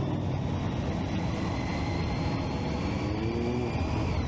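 Triumph Street Triple 675's three-cylinder engine running while riding, with wind and road noise. A high whine climbs slowly as the bike pulls, then falls away near the end as the revs drop.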